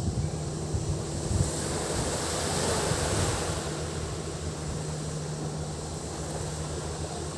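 Sea waves washing onto a beach, the wash swelling about two to three seconds in, over a steady low engine hum.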